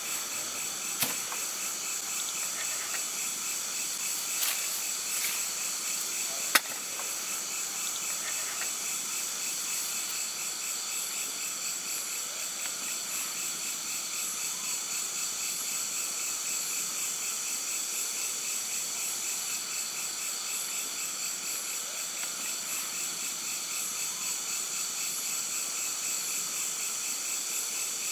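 Steady chorus of crickets and other insects, shrill and continuous with a fast pulsing trill. A few sharp clicks or knocks come in the first seven seconds, the loudest about six and a half seconds in.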